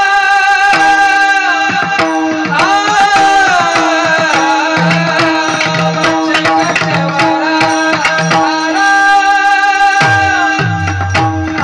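Devotional kirtan singing: a voice holding long, ornamented notes over hand-drum accompaniment with quick, steady strokes.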